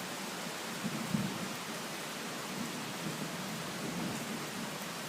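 Heavy rain falling steadily with a low rumble of thunder rolling underneath, swelling briefly about a second in.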